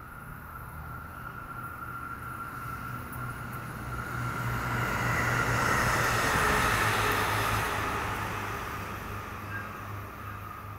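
SMART diesel multiple-unit commuter train passing by. Its engine drone and a steady high whine grow louder, peak about six seconds in as the train goes past, then fade away.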